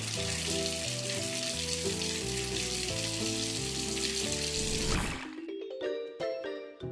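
Water running steadily from a tap, cut off sharply about five seconds in, over light background music.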